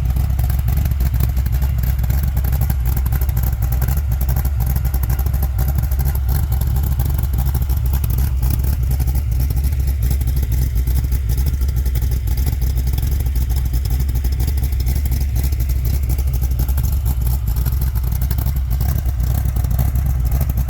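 CAV GT40's V8 engine idling steadily while warming up from a cold start, a deep, even rumble with a light clatter over it.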